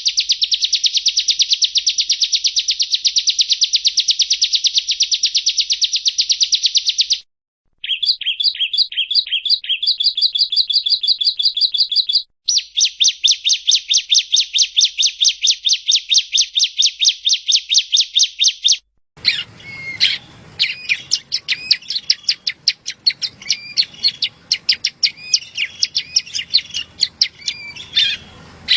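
Yellow-bellied prinia (prenjak rowo) singing: long runs of rapid, evenly repeated high notes, broken by two short gaps, with a slower, changing phrase about eight seconds in. From about nineteen seconds there is a different passage, with a background hiss under varied, irregular chirps.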